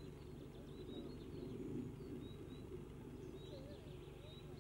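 Faint outdoor ambience: small birds chirping with short, high chirps every second or so over a low steady rumble.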